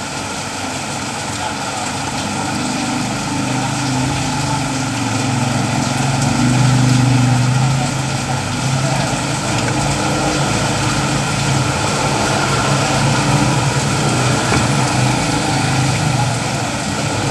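Steady rain hiss. Under it, the low hum of an engine rises in after about two seconds, is loudest about seven seconds in, and keeps running to the end.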